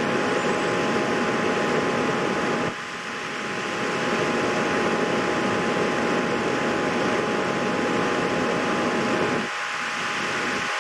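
Steady fan-like whirring noise with two faint steady tones in it. The level dips briefly about three seconds in and again near the end.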